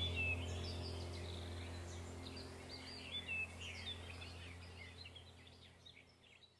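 Birds chirping in quick short calls over a low steady hum, the whole background fading out gradually to silence near the end.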